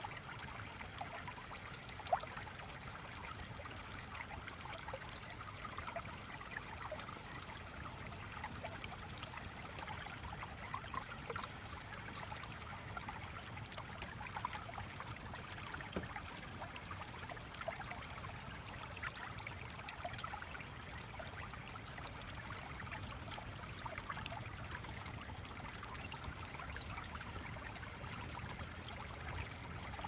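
Small stream flowing and trickling steadily, with lots of little burbles. A single sharp click sounds about two seconds in.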